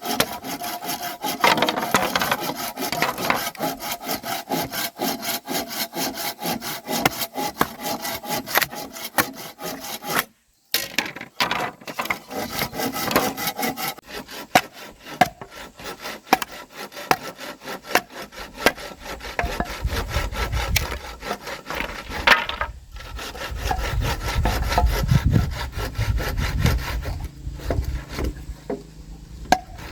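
Hand saw cutting wood in quick back-and-forth strokes, with a brief pause about ten seconds in.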